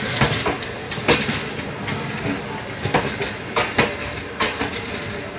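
Passenger train coach running on the track: a steady rumble with irregular sharp clacks of the wheels over rail joints, heard from inside the coach.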